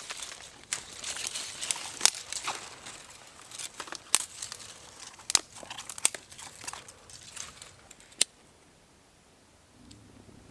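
Crinkling, crackling handling noise with scattered sharp clicks, stopping about eight seconds in.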